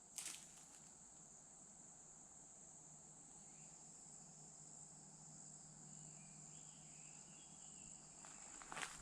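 Faint, steady high-pitched insect trilling, crickets or similar, with a footstep just after the start and footsteps on the woodland floor starting again near the end.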